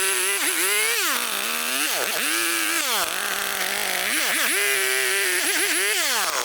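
Chainsaw engine running at high revs, its pitch dipping and climbing back several times. Near the end it winds down.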